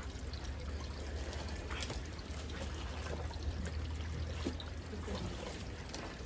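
Water running and splashing steadily, with a low steady hum beneath and a few faint knocks.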